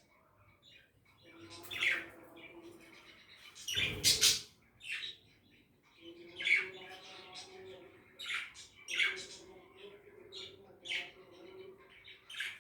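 Budgerigars chirping and squawking in short, scattered calls, with a loud harsh burst about four seconds in.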